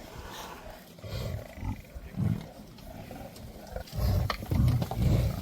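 Lions growling in short, low bouts, growing louder and more continuous from about four seconds in.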